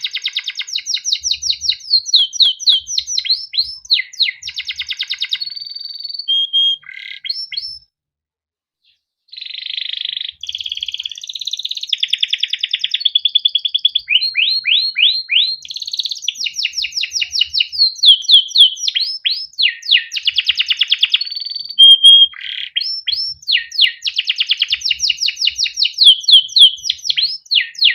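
Male canary singing a long song: fast runs of repeated down-swept chirps, buzzing trills and short held notes, broken by a pause of about a second and a half.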